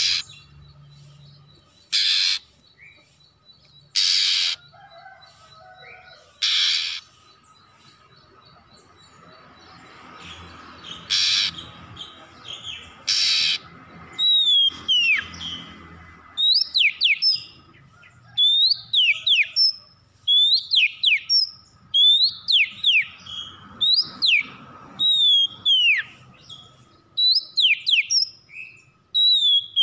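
Oriental magpie-robin (kacer) calling: first a few widely spaced harsh, rasping bursts, then, from about halfway, a steady run of repeated clear whistled phrases, each one sweeping up and dropping sharply, about one a second.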